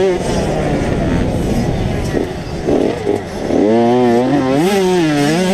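85cc two-stroke motocross bikes running on the track, engine pitch rising and falling as the throttle is worked. About two-thirds of the way in, one bike's engine comes in loud and close, revving up and down.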